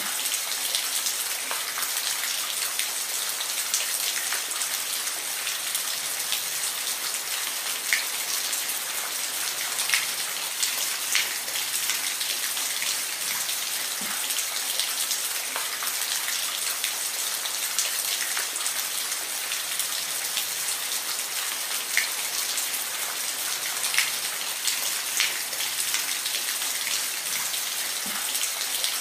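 Steady rain falling, an even hiss with frequent individual drops ticking on a hard surface.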